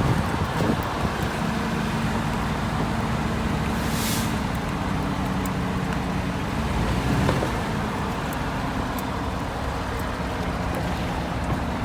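A vehicle engine running steadily at low revs, its pitch shifting slightly about seven seconds in, with a brief hiss about four seconds in.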